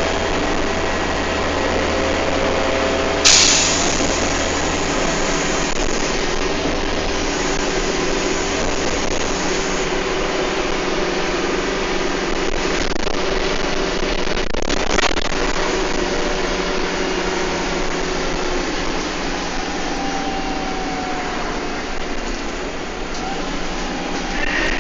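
Bus engine and drivetrain heard from on board while the bus is under way, a steady low drone that changes note about five seconds in. There is a sharp bang about three seconds in, the loudest moment, and a few fainter knocks or rattles later on.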